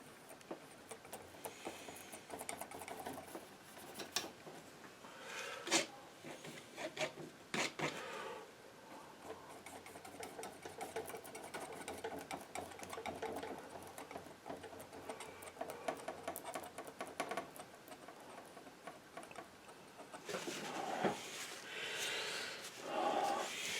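Painting knife scraping and dabbing paint, an irregular run of rubbing strokes with a few sharp taps, louder scraping near the end.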